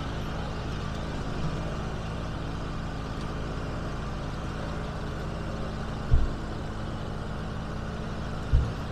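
1980 IH Cub Cadet 582 garden tractor engine idling steadily, with a sharp knock about six seconds in and another near the end.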